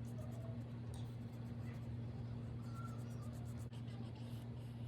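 Soft, scratchy strokes of a watercolor brush on paper, repeated every fraction of a second, over a steady low electrical hum.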